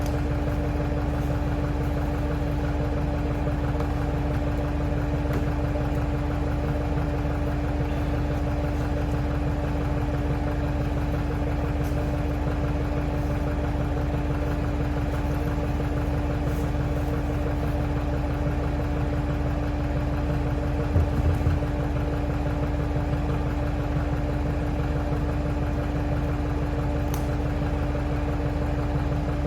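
Engine of a piece of heavy equipment running steadily at an even speed, with a few short knocks about two-thirds of the way through.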